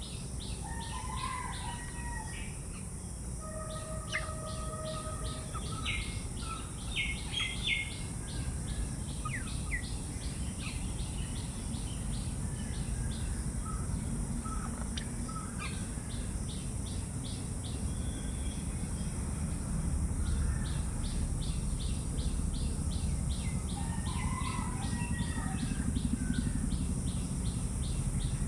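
Several birds chirping and calling, with short whistles scattered through, over a fast, even, high pulsing and a steady high hiss. Low rumbling background noise grows louder in the second half.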